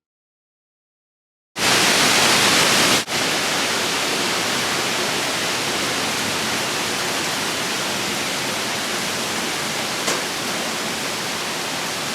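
Silence, then a loud steady hiss of static-like noise that switches on abruptly about one and a half seconds in, cuts out for an instant about a second later, and runs on evenly.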